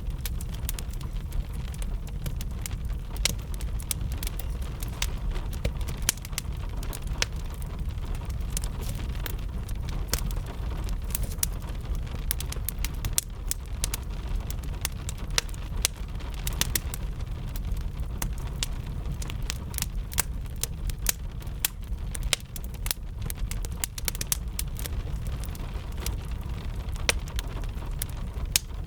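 Fire crackling with frequent sharp, irregular pops over a steady low rumble, mixed with gentle rain.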